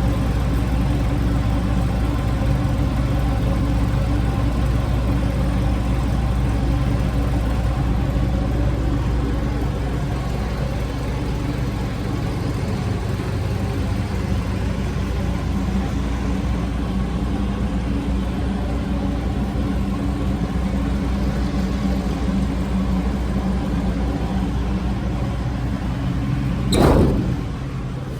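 A machine running steadily with a low, layered hum. About a second before the end comes one short, sharp burst of noise, after which the hum is quieter.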